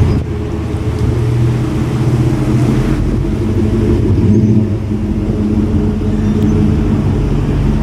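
Car engine running steadily at low revs, a loud low rumble.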